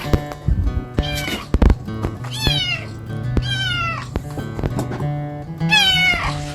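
A cat meowing about four times, each meow falling in pitch, over background acoustic guitar music.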